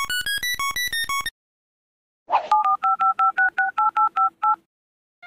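Telephone keypad tones: a quick run of single beeps stepping up and down in pitch, then, after a pause of about a second, about a dozen quick two-tone dialing beeps as a number is keyed in.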